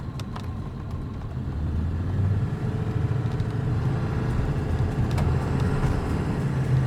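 Motor vehicle engine and road rumble, a steady low drone that grows louder about a second and a half in.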